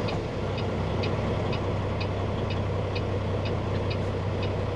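Truck engine running steadily, heard from inside the cab, with the turn signal clicking about twice a second during a turn.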